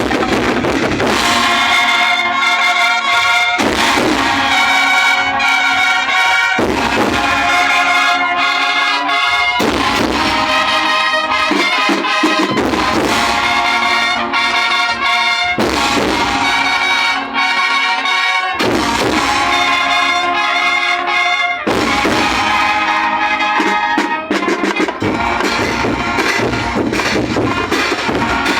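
Student brass band playing a tune on trumpets and trombones, in loud phrases that restart every few seconds.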